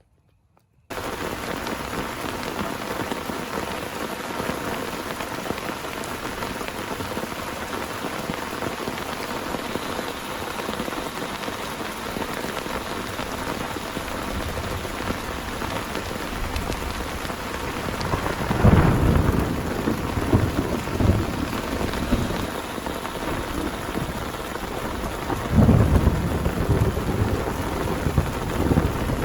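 Heavy rain falling steadily, starting abruptly about a second in, with thunder rumbling twice in the second half.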